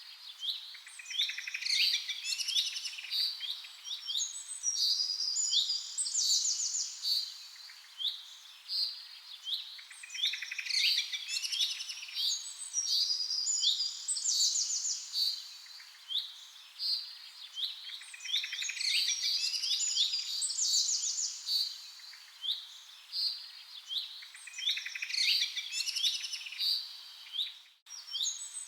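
Several small songbirds chirping and twittering: short, quick calls and fast high trills overlapping throughout. There is a brief break in the sound near the end.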